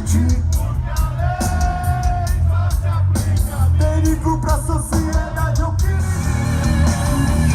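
Live rock band playing loud with drums, heavy bass and a singer; a sung note is held about a second and a half in.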